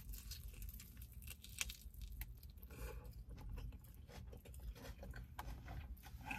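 A person biting into and chewing a soft-shell crab spider hand roll wrapped in nori. The chewing is faint, with many small crisp clicks.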